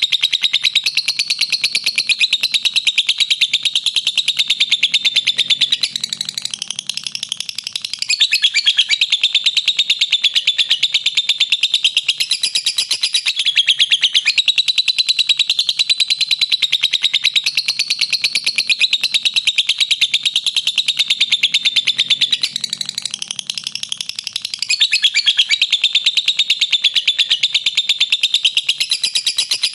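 A lovebird giving a long, unbroken 'ngekek' call: a very fast, shrill chattering trill. It goes on without pause, softening and dropping in pitch briefly twice.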